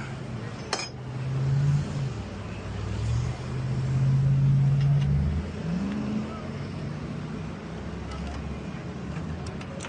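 Motor vehicle engine accelerating, its pitch rising, holding steady, then climbing again, with a sharp click about a second in.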